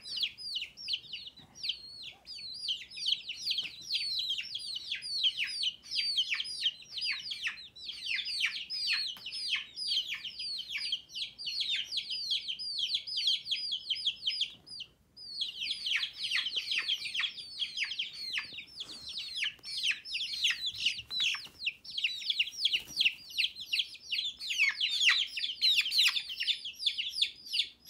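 Several baby chicks peeping without a break, a dense stream of high, short cheeps that each fall in pitch, with a brief pause about halfway through.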